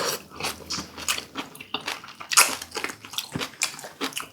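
Close-up eating noises: a person chewing and smacking on boiled duck meat, an irregular run of small mouth clicks several times a second.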